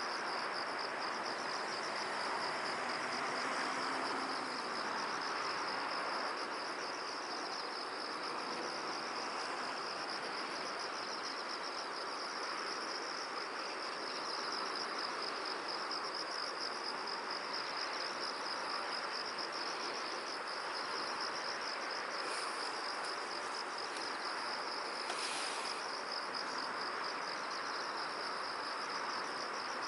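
Field ambience dominated by a continuous, high-pitched, rapidly pulsing trill of crickets, over a steady hiss of wind and background noise. A few brief higher chirps come about two-thirds of the way through.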